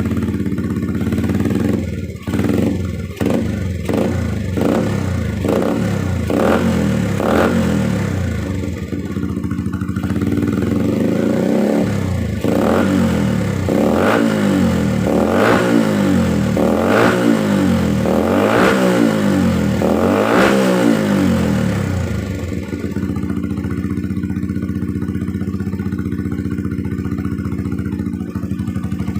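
Motorcycle engine breathing through a newly fitted WRX replica aftermarket exhaust: idling, then blipped up and down about eight times in quick succession, then settling back to a steady idle near the end.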